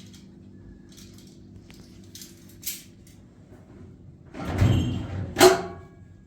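Objects being handled over a low steady hum: a few soft clicks and a knock, then a scrape about four seconds in and a sharp clink that rings briefly.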